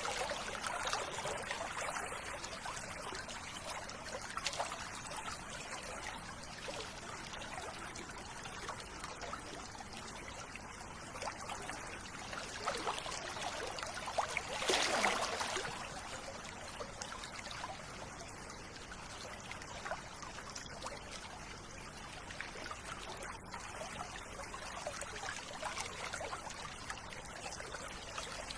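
River water running steadily, with a brief louder swell about halfway through.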